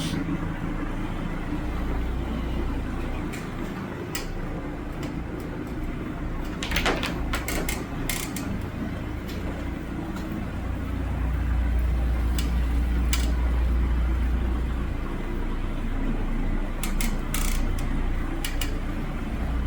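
Carpet extraction cleaning machine running with a steady low drone that grows louder for a few seconds in the middle and again near the end. Short sharp bursts of sound come and go over it.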